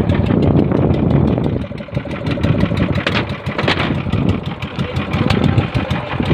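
Bangka (Philippine outrigger boat) engine running steadily with a rapid, even pulsing.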